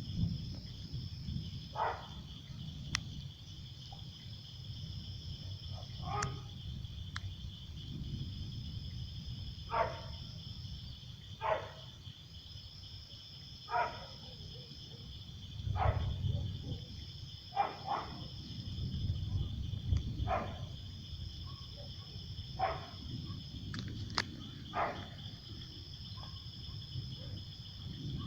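Chorus of insects outdoors: a steady high cricket trill, and a second, higher trill that pulses on for about two seconds at a time every three seconds or so. Short mid-pitched calls come about every two seconds over a low rumble.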